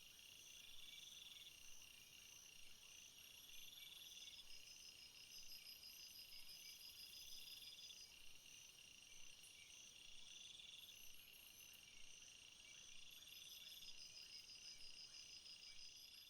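Faint chorus of crickets or similar insects: several high-pitched pulsed trills overlapping, one rising and falling in repeated phrases about every two to three seconds, over a steady high whine.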